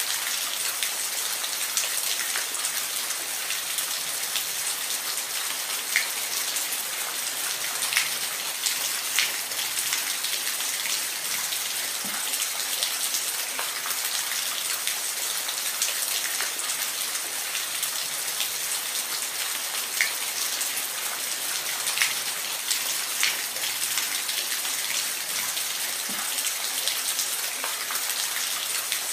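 Steady rain, a constant hiss with scattered sharp drips and patters of drops landing on a surface.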